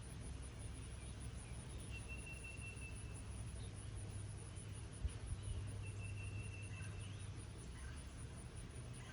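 Steady light rain hiss, with a fast-pulsing high insect trill running throughout. A bird gives two long, thin whistled notes, about two and six seconds in, among a few short chirps. A dull low thump comes about halfway through.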